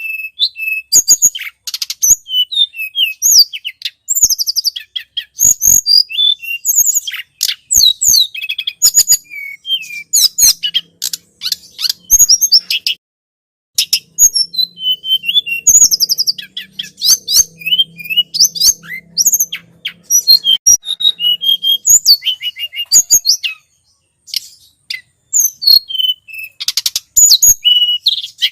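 Tledekan gunung song played as a bird lure: rapid, high-pitched chirps and trills in dense bursts, broken by two short pauses.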